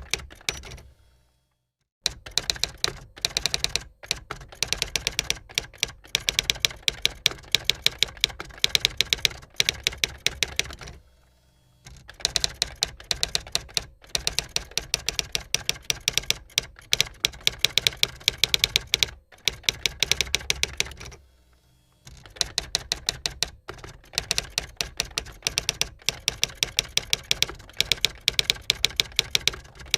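Typewriter keys struck in rapid runs of sharp clacks, about six a second, with three brief pauses in the typing.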